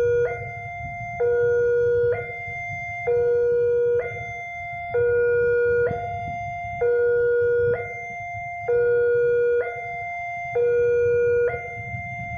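Railway level-crossing warning alarm sounding as a train approaches: an electronic signal alternating steadily between a lower and a higher tone, each held just under a second. A steady low rumble lies underneath.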